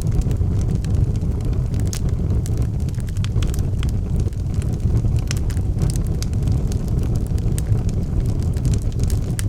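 Wood fire burning in a fireplace: frequent sharp crackles and pops of burning logs over a steady low rumble of the flames.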